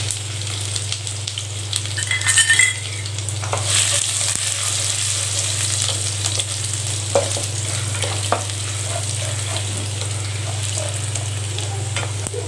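Chopped garlic and ginger sizzling in hot oil in a nonstick pan, stirred with a wooden spatula that scrapes and taps against the pan. There is a short clink about two seconds in and a steady low hum underneath.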